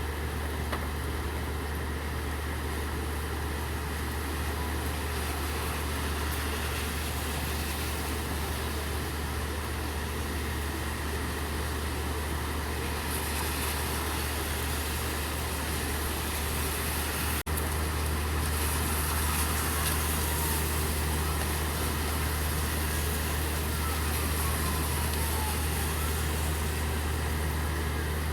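Steady rain with a vehicle engine idling as a constant low hum. In the last several seconds a distant siren starts to wail faintly, and there is a brief dropout a little past the middle.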